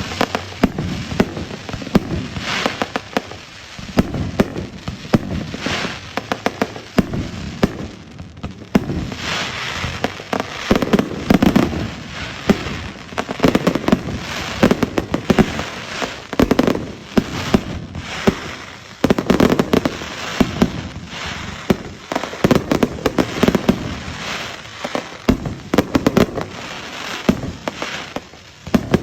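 Fireworks going off continuously on bonfire night: many sharp bangs and crackles in rapid succession, swelling in clusters every couple of seconds.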